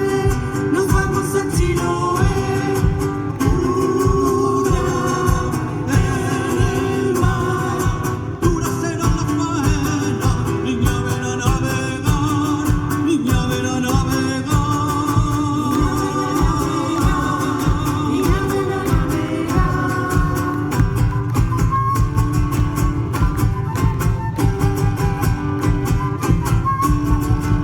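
Chilean folk music with singing over acoustic guitar and a steady beat.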